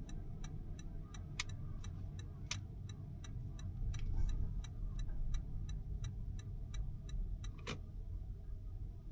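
Car turn-signal indicator clicking steadily, about three clicks a second, over the low rumble of the car moving; the clicking stops about eight seconds in, with a few louder knocks along the way.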